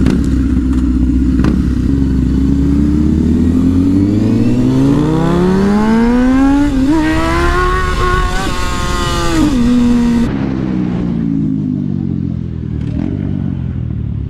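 Motorcycle engine accelerating hard, its pitch rising steadily for about seven seconds with a brief hitch partway. The throttle then shuts off abruptly and the engine winds down, with wind rush on the microphone rising alongside the engine and stopping when it drops.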